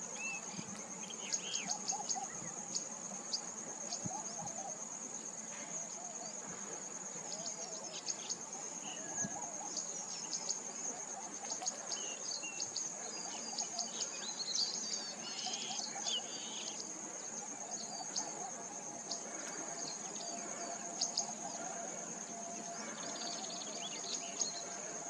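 A steady, high-pitched insect drone, like a cricket chorus, with many short bird chirps and calls scattered over it.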